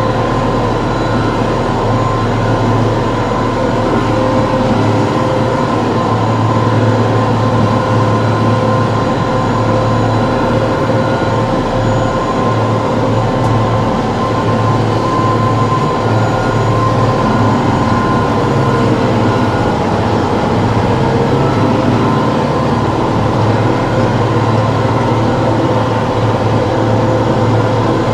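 TYM T654 tractor's diesel engine running steadily: an even, unbroken drone with steady tones riding on it.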